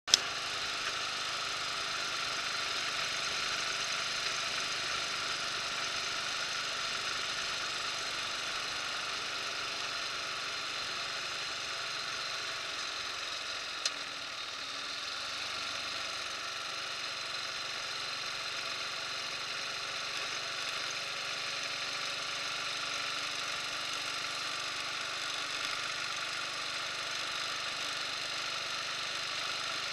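Buell motorcycle engine running steadily at cruising speed, under a steady rush of wind and road noise. A single sharp click about halfway through.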